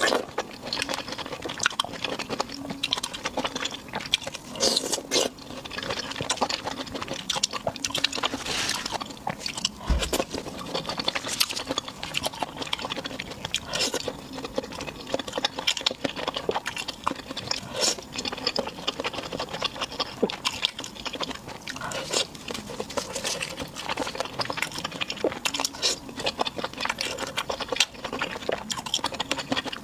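A person chewing and biting food close to the microphone: a steady, dense run of small wet clicks and smacks.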